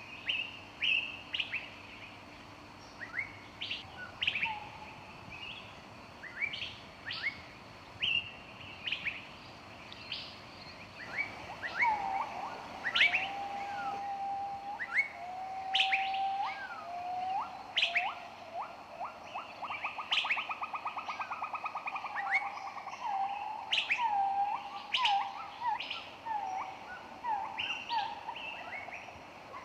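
Several songbirds singing together in a forest: many short, high chirps throughout, joined about a third of the way in by lower whistled notes and a fast trill.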